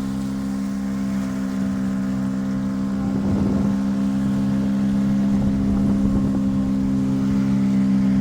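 Boat motor running with a steady hum, growing a little louder from about three seconds in.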